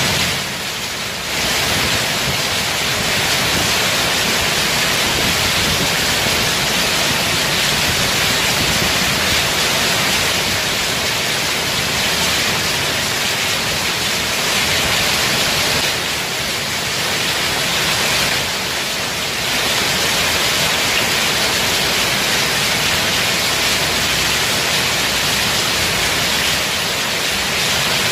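Heavy rain falling steadily in a dense hiss, easing slightly for a moment now and then.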